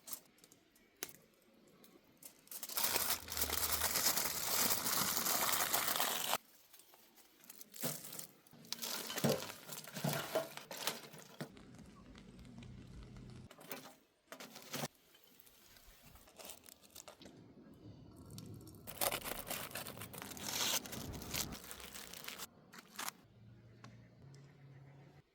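Aluminium foil crinkling and tearing in two long stretches, about three seconds in and again near nineteen seconds in, with shorter rustles between.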